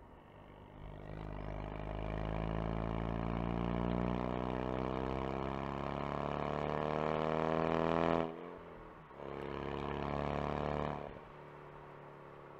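Ford Focus RS engine and exhaust under hard acceleration, the note climbing steadily in pitch and loudness for about seven seconds. It breaks off sharply at a gear change, pulls again briefly, then drops back to a quieter cruise as the throttle eases off near the end.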